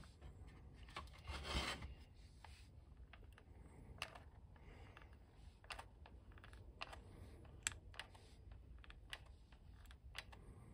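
Faint handling of plastic toy parts: scattered small clicks and taps, with a short rubbing scrape about one and a half seconds in.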